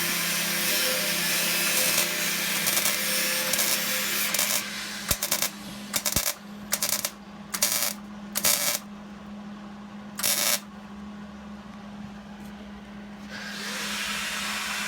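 Metalworking on steel: about four seconds of continuous harsh, hissing tool noise, then a run of about seven short bursts, all over a steady low hum.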